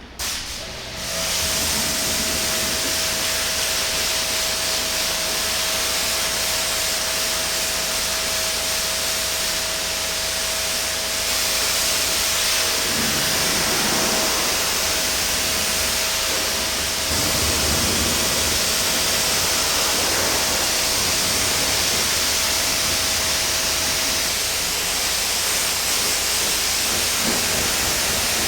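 Pressure washer spraying water against a car in one long, steady hiss. A steady whine from the washer's pump motor runs under the spray and drops out about four seconds before the end.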